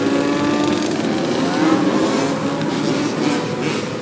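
Car engines revving, their pitch rising and falling, as cars drive past on the street.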